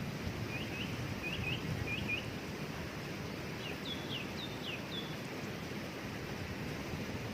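Steady rush of a waterfall with short bird chirps over it: three quick pairs of rising notes in the first two seconds, then a few higher, falling notes a little past the middle.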